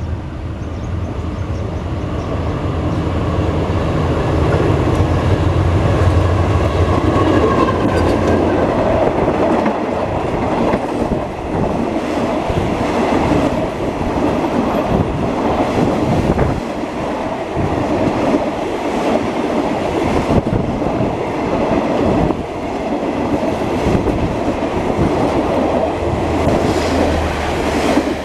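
State Railway of Thailand passenger train passing close by: a diesel locomotive's engine hum builds over the first several seconds. Then the coaches roll past with a loud, continuous clatter of wheels over the rail joints.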